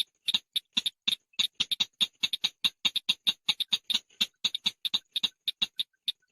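Shrike (chàng nghịch) calling: a fast, even run of short, sharp ticking notes, about six or seven a second.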